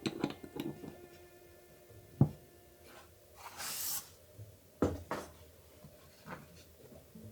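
Small model-kit parts being handled and set down on a work surface: scattered light clicks and knocks, one sharp knock about two seconds in, and a second or so of rustling between three and four seconds in.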